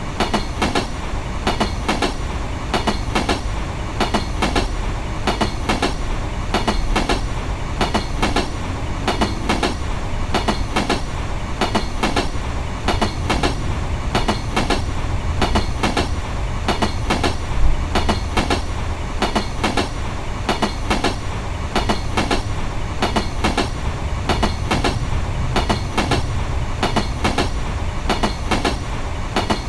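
Electric train passing close by, its wheels clattering over the rail joints in a steady, repeating rhythm of clacks, several a second, over a low rumble. One louder knock comes a little past halfway.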